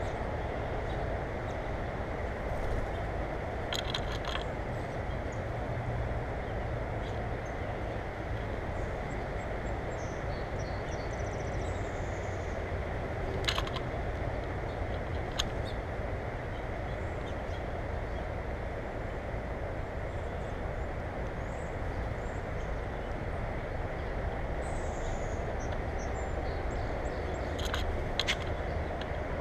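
Steady background noise with a few faint, high bird chirps about ten seconds in and again near twenty-five seconds, and a handful of sharp clicks.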